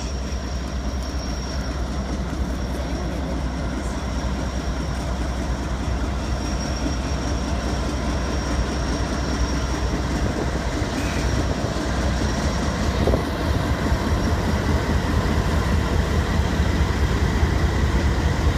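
Freight cars of a long CN freight train rolling past at a crossing: a steady rumble and rattle of wheels on rail, slowly growing louder, with a thin high steady tone above it.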